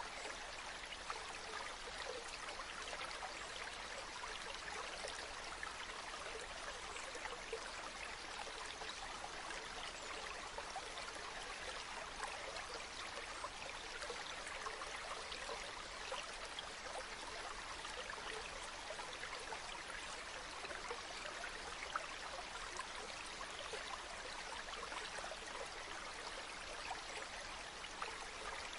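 Small spring-fed stream of water running and trickling, a steady gurgle with many fine splashes and drips.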